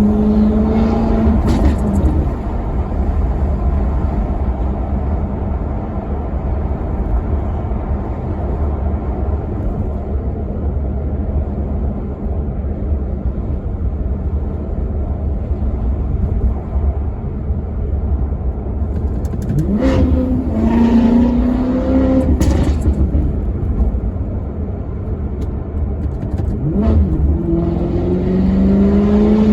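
Maserati Quattroporte Sport GT's V8 engine running under way with a steady deep drone. About twenty seconds in and again near twenty-seven seconds it gives a quick revving blip, like a throttle-blipped downshift, and then its pitch climbs steadily as the car accelerates.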